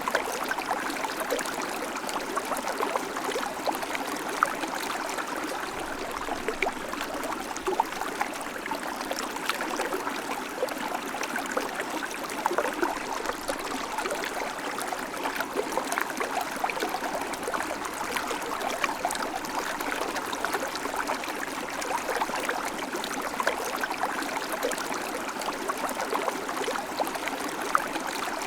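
River water flowing over stones: a steady rushing and babbling, with many small splashes and gurgles in it.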